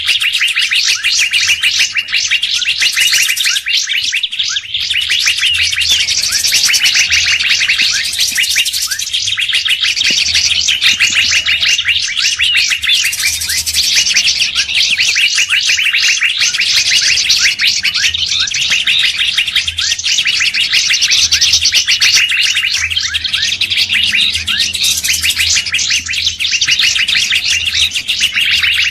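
Bird-lure recording of several songbirds calling at once: a dense, unbroken stream of rapid high chirps and trills, layered over a faint low hum.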